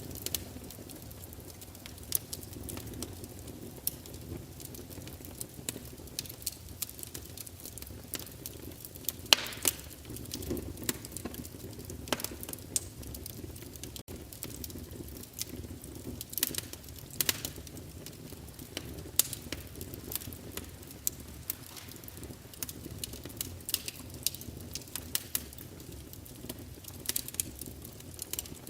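Wood fire crackling: irregular sharp pops and snaps over a low, steady rumble, with a few louder pops, the loudest about nine seconds in.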